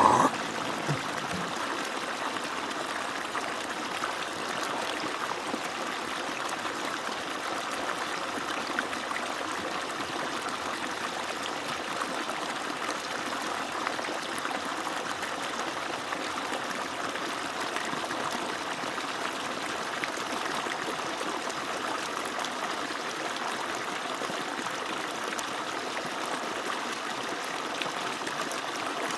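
Water falling steadily from an agricultural pump's outlet: an even, unbroken splashing rush.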